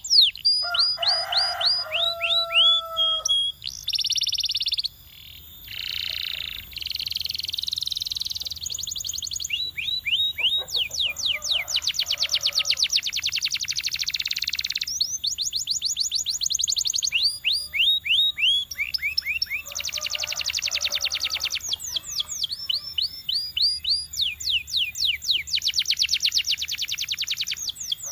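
Domestic canary singing a long song: phrases of rapidly repeated sweeping notes and fast trills, each phrase switching to a new note type every few seconds.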